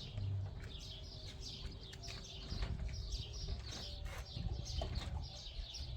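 Small birds chirping over and over in short, falling calls, over a low rumble. A faint steady hum lies underneath and stops about four seconds in.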